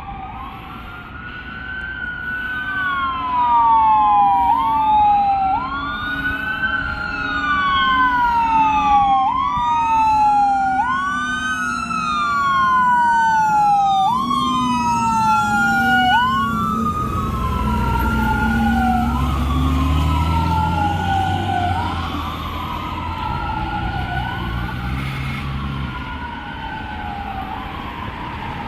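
Fire engine siren wailing, its pitch rising and falling about every two seconds, with a second wail overlapping it. A heavy engine rumble swells under the siren about halfway through.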